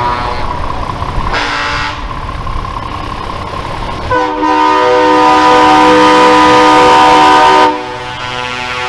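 Truck air horns sounding over the rumble of passing truck engines. There is a short blast about a second and a half in, then a long, loud blast of several tones at once lasting about three and a half seconds from around four seconds in.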